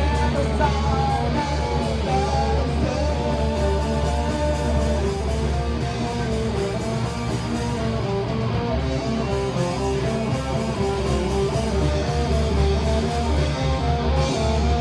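A metal band playing live without vocals: electric guitars play shifting melodic lines over a steady low bass.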